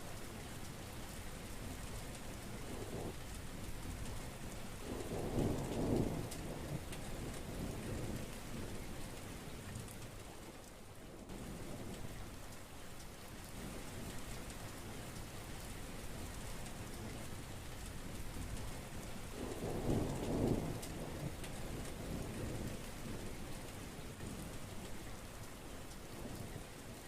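Heavy rain falling steadily, with two rumbles of thunder, one about five seconds in and another about twenty seconds in.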